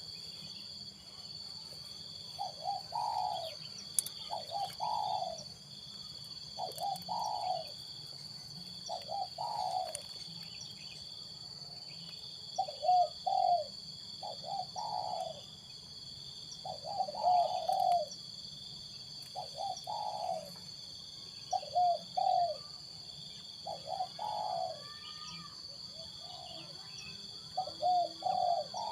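Spotted dove (tekukur) cooing: a short phrase of a few linked coo notes, repeated about every two seconds. A steady high-pitched hum runs underneath.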